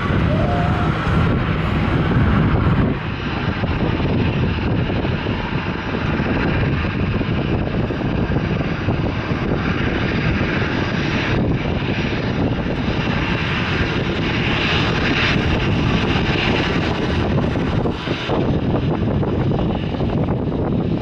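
Jet airliner's engines running steadily as the aircraft passes, mixed with heavy wind rumble on the microphone.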